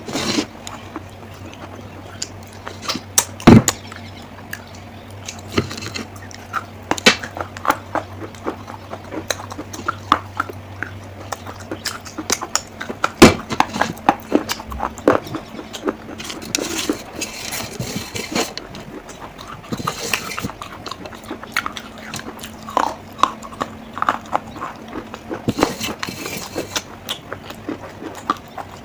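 Baked clay cracking and crumbling: irregular sharp cracks and crunches, with a few short rustling rushes.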